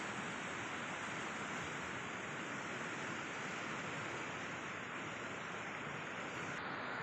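Steady rushing noise, even and unbroken, with a slight change in tone near the end.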